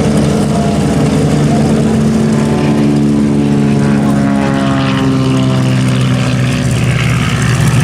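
Piston-engined propeller airplane flying past, its engine and propeller drone dropping steadily in pitch through the middle as it goes by.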